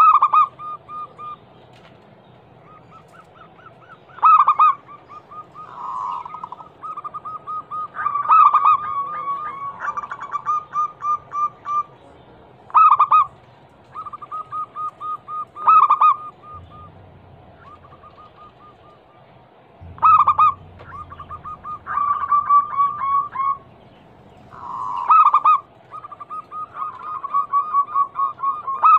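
Zebra doves (perkutut) cooing: runs of quick, evenly spaced notes, each run broken every few seconds by a louder accented coo.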